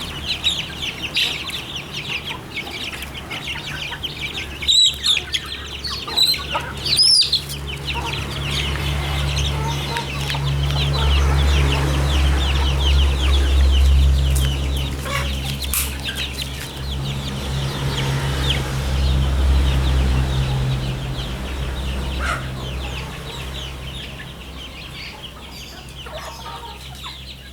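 A flock of village chickens clucking and cheeping continuously, with a few sharper, louder calls about five and seven seconds in. A low steady hum underneath grows louder in the middle and fades again.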